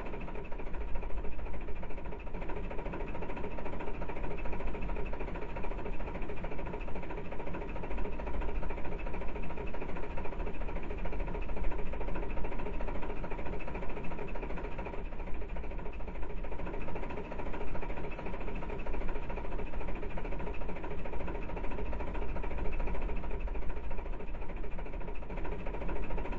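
A steady mechanical drone: an engine running evenly, with a deep rumble and a constant hum.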